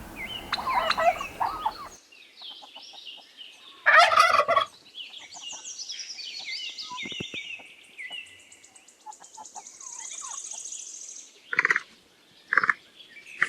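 Turkey calling, with one loud gobble about four seconds in, followed by runs of short high chirping calls and two shorter calls near the end.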